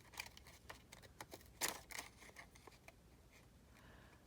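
Faint snips and rustles of scissors cutting paper: several short strokes and clicks in the first two seconds, then it goes quiet.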